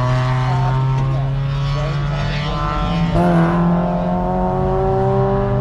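Spec Miata NB's 1.8-litre four-cylinder engine idling steadily inside the cabin, its pitch rising slightly about three seconds in.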